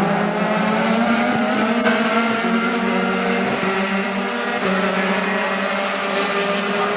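Dallara F312 Formula 3 race car engines running hard at high revs, holding a high, steady note with a couple of small shifts in pitch.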